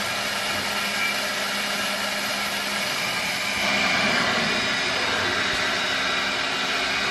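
CNC drilling and milling machine running its program at the 90-degree position: a steady machine whine of spindle and drive over a mechanical hiss, a little louder from about halfway through.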